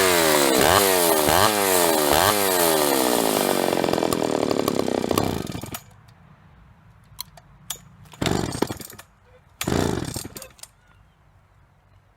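John Deere 60V two-stroke chainsaw running, its pitch dipping and recovering several times in the first couple of seconds, then falling away as the engine dies about six seconds in, a stall the owner puts down to debris from perished fuel lines reaching the carburettor. Two short bursts of noise follow a few seconds later.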